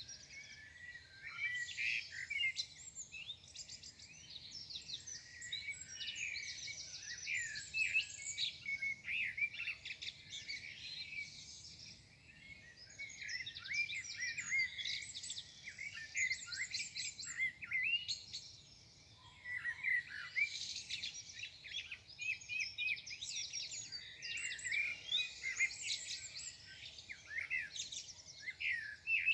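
Several songbirds singing and chirping at once, quick overlapping high chirps and trills, with short lulls about twelve and eighteen seconds in.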